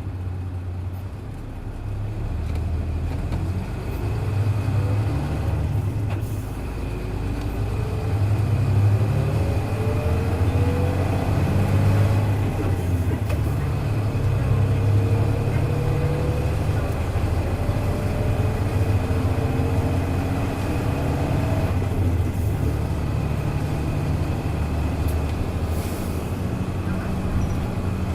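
Hino Blue Ribbon KC-HU2MMCA bus engine and drivetrain pulling under load, the whine rising in pitch through each gear and breaking off at an upshift about six and about thirteen seconds in, then rising again. The sound grows louder over the first several seconds as the bus gathers speed.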